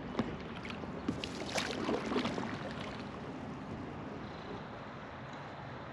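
River water rushing and splashing against a floating raft: a cluster of irregular splashes in the first three seconds over a steady rush of water, which then settles.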